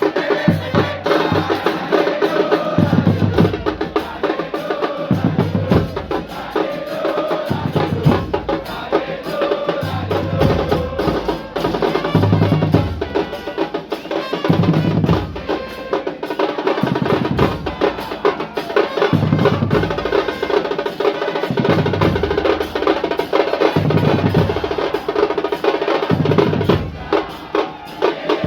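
A drum band of football supporters, bass drums and snare drums, playing a repeating rhythm with snare rolls.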